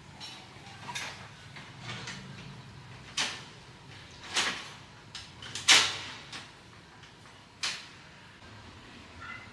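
Irregular handling knocks and scrapes, about half a dozen spread unevenly, the loudest a little past halfway.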